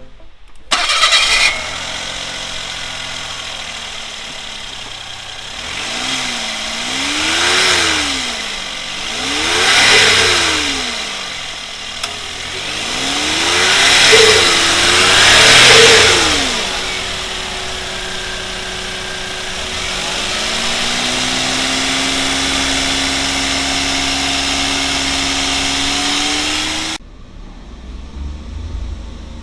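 Mazda AZ-Offroad's K6A 660 cc three-cylinder turbo engine starting after a brief crank and settling into idle. It is blipped four times, each rev rising and falling, then returns to a steady idle that steps up slightly before the engine stops abruptly near the end.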